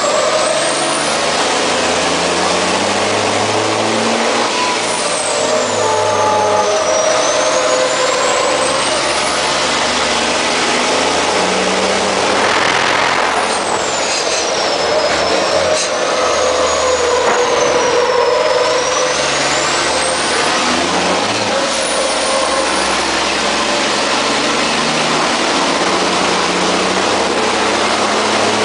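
MAN race truck's diesel engine running hard, heard from inside the cab over loud steady road and wind noise. The engine note shifts up and down with the throttle and gears, and a high whistle rises and falls several times.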